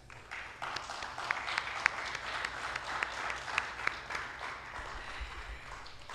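A small audience applauding, starting about half a second in and fading toward the end.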